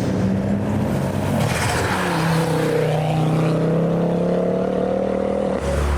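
Ford car engine revving as the car drives past: the note climbs over the first two seconds, holds steady for a few seconds, then gives way to a deeper engine rumble near the end.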